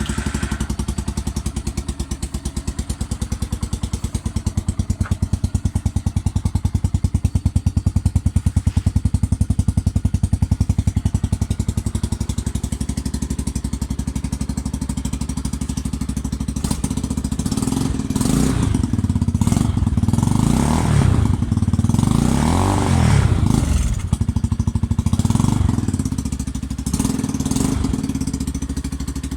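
Yuki 125 motorcycle's single-cylinder engine idling with an even pulse just after a cold start, then revved in several short blips from about eighteen seconds in.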